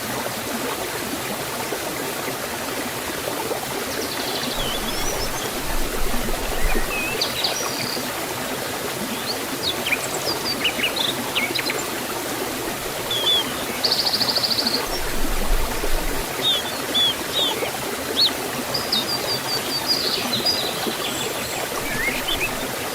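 Forest waterfall and stream water rushing steadily, with small birds chirping over it from about four seconds in, including a short rapid trill midway.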